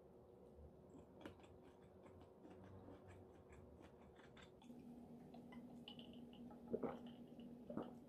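Faint chewing and small mouth clicks of someone eating pasta made with tofu noodles, with a few sharper clicks near the end.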